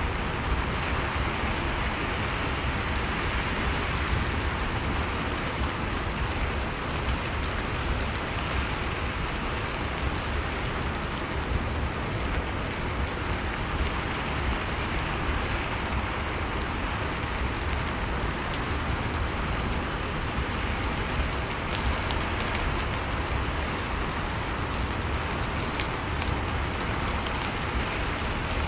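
Steady rain falling, an even hiss of rain on a surface with a low rumble beneath and scattered drop ticks.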